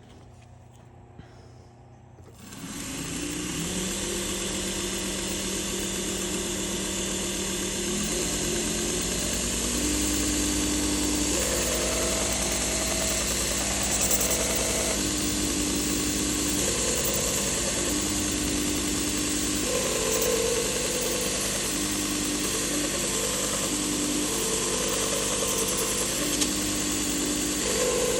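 Toolcker 1x30 belt grinder running a 1200 grit belt. It starts up about two and a half seconds in and then runs steadily, with a grinding hiss and a tone that shifts every few seconds as the knife blade is worked against the slack belt.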